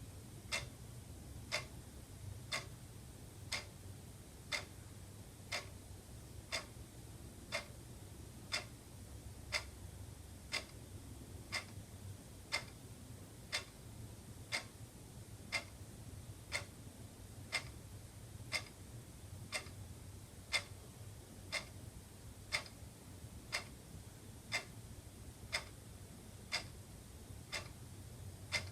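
Wall clock ticking steadily, about two ticks a second, alternating louder and softer, over a faint low hum.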